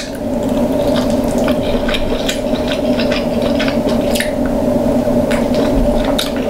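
Close-up wet chewing and mouth smacking while eating crab meat dipped in butter sauce, with small scattered clicks, over a steady low hum.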